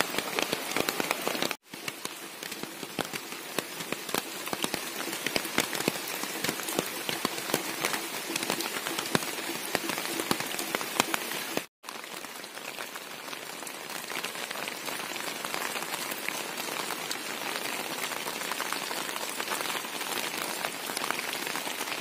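Steady rain falling, a dense even hiss of countless drop hits. The sound cuts out for an instant twice, about a second and a half in and again about halfway through.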